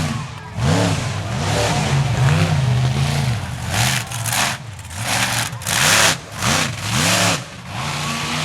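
Monster truck engine revving hard in repeated bursts, its pitch climbing and falling about once a second, with a loud rush of noise at each peak.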